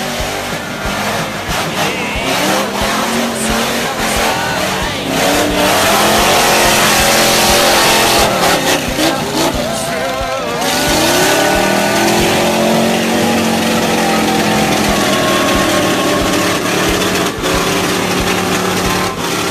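Modified car and truck engines revving hard at full throttle while their tyres spin in loose dirt. The engine pitch climbs and falls repeatedly, drops a little after ten seconds, then sweeps back up.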